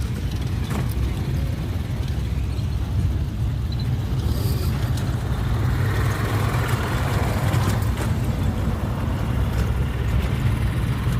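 A car engine running steadily with a low rumble, and a hissing noise that swells for a few seconds midway.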